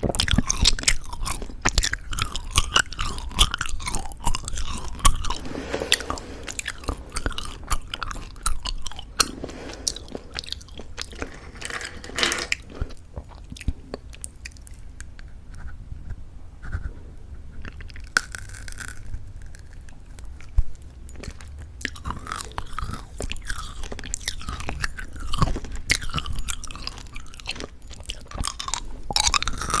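Close-miked mouth sounds of someone chewing plum Happy Jelly chewy candies with a crunchy sugar coating: crisp crackling crunches and wet chewing. About halfway through, the crunching thins out into a quieter, sparser stretch, then becomes dense again near the end.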